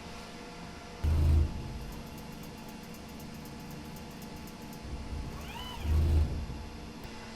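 Two heavy low thumps, about a second in and about six seconds in, the second preceded by a short squeak that rises and falls in pitch.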